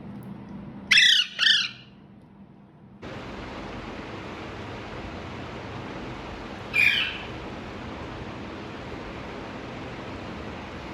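Pet parrot squawking: two loud, harsh calls in quick succession about a second in, then a single call about two-thirds of the way through. A steady hiss starts abruptly about three seconds in and runs under the later call.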